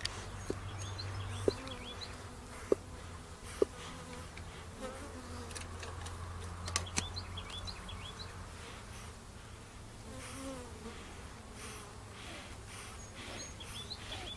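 Honey bees buzzing steadily around an open hive, with a few sharp clicks from hive handling, the loudest four of them in the first four seconds.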